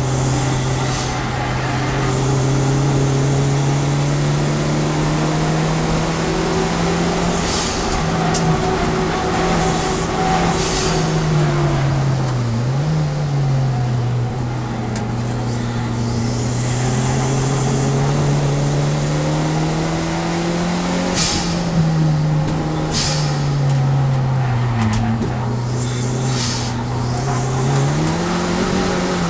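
Fiat Seicento Turbo race car's engine heard from inside the cabin at racing speed, its note climbing through the revs and dropping back with gear changes and braking for corners. Several short, sharp hisses cut in between.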